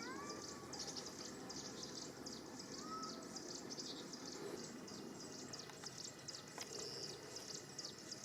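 Kitten meowing, short arching calls near the start and again about three seconds in, over many small birds chirping rapidly and continuously.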